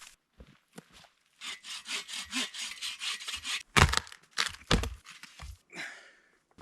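Folding hand saw cutting through a branch in quick, even strokes, followed by two loud cracks about a second apart.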